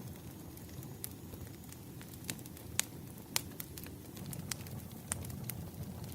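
Bonfire crackling: a steady low rumble of burning with sharp, irregular pops and snaps of burning wood.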